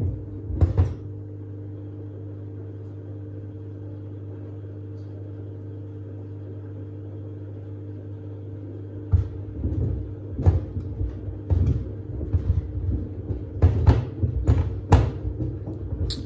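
Samsung WD70T4047CE washer-dryer's drum turning with a steady motor hum. From about nine seconds in, the sneakers tumbling inside thump irregularly against the drum and door glass, knocking but not very hard.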